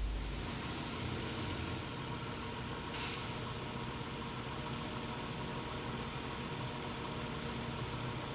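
Nissan Altima engine and CVT idling steadily, with no whine now that the folded transmission strainer has been replaced. A brief hiss comes about three seconds in.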